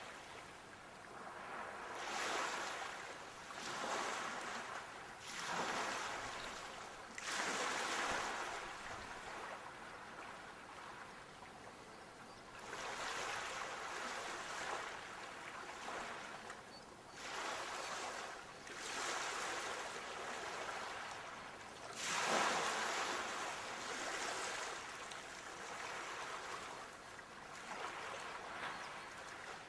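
Sea waves breaking and washing on a shore, each surge of surf hiss swelling and fading every couple of seconds, one larger wave breaking about two-thirds of the way through.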